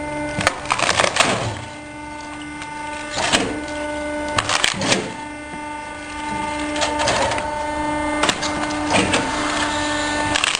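Hydraulic firewood cutting and splitting machine running. Its drive gives a steady whine, with knocks and clatters of wood and moving parts at irregular intervals.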